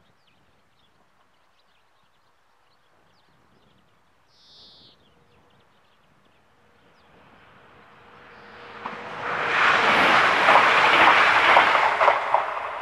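A train approaching and passing at speed over a level crossing: a rising rush from about seven seconds in, loud for the last few seconds with the rapid clatter of wheels on the rails, then beginning to fade.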